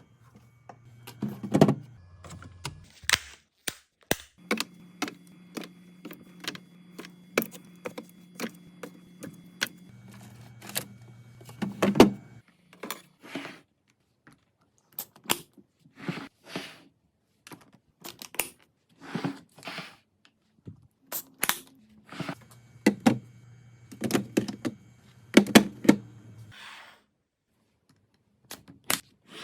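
Handling sounds of a fridge restock: many separate clicks, taps and knocks as containers and food packs are picked up and set down, with lids and packaging being handled. A low steady hum sits under them for the first dozen seconds and again in the middle stretch.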